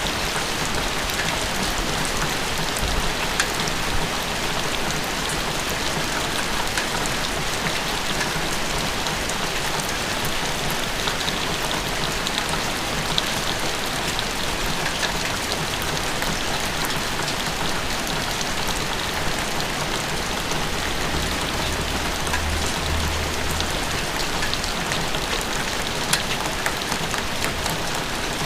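Steady rain falling on surfaces, an even hiss dotted with the ticks of individual drops, with a faint low rumble about twenty seconds in.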